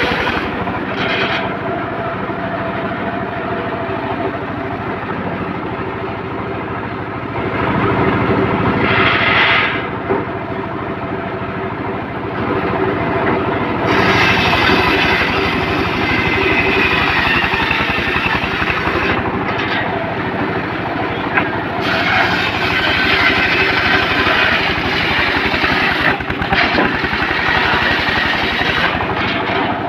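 Engine-driven homemade circular sawmill running steadily, its blade cutting through teak in several stretches that add a harsher, louder hiss over the engine drone.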